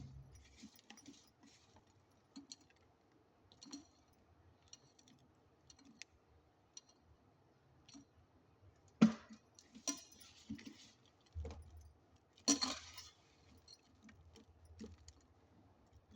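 Kitchen utensils being handled: scattered light clicks and clinks, with two louder knocks, about 9 and 12½ seconds in.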